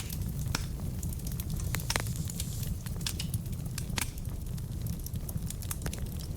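Wood fire burning in a fireplace: a steady low rumble of flames with irregular crackles and pops from the burning logs, the sharpest pops about half a second, two seconds and four seconds in.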